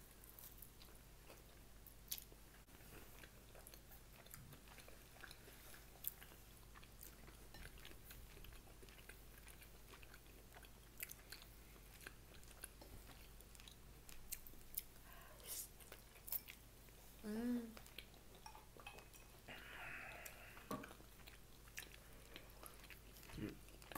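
Quiet chewing and biting of food close to the microphone, with many scattered soft mouth clicks.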